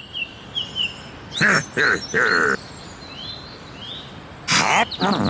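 Light bird chirping, with a cartoon character's short vocal sounds breaking in: three quick ones close together, then a longer one near the end.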